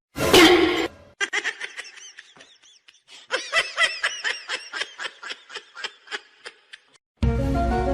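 Laughter: a loud high cry at the start, then a long run of quick, short ha-ha bursts that trails off.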